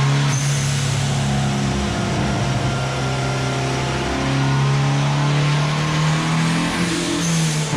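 Turbocharged Honda D15B four-cylinder engine running on a dyno, holding steady engine speeds with a few shifts up and down in pitch.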